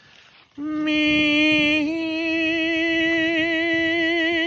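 A voice singing one long held note with a slight wobble in pitch, stepping up a little about two seconds in. It is the drawn-out last word of a sung intro jingle.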